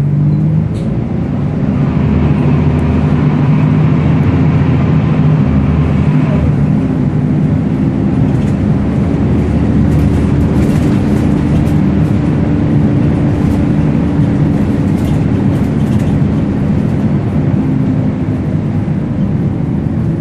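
Volvo B10BLE bus's six-cylinder diesel engine running under load, with the screechy 'hoover' whine of its cooling fan. The whine is strongest in the first third, then eases.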